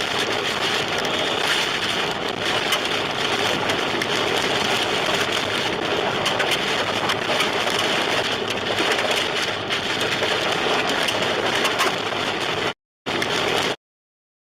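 Heavy rain and wind noise on a car driving through a storm, with many sharp ticks of drops or debris hitting the body. The sound cuts out to silence twice briefly near the end.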